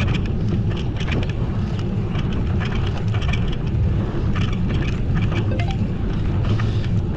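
Wind rumbling on the microphone of a camera riding along on a moving bicycle, steady and low, with scattered crackles from the road.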